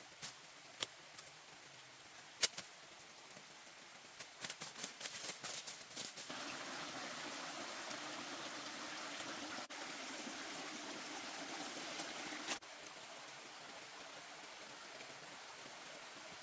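Scattered sharp clicks and knocks, then a steady rush of running water for about six seconds that starts and stops abruptly, followed by a quieter steady hiss.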